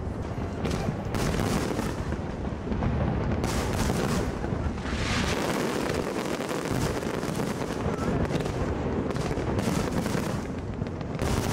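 Aerial fireworks display: a dense, continuous barrage of shell bursts going off with booms and crackling, with a brighter hissing crackle about five seconds in.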